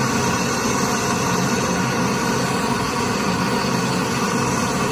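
Steady machine drone with a low hum, holding an even level throughout.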